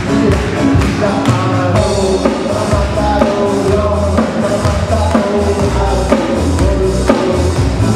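Live band music with a steady drum-kit beat and a moving bass line under pitched instruments.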